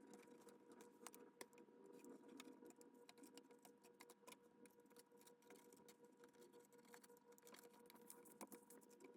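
Near silence, with faint scattered small clicks and taps over a faint steady electrical hum.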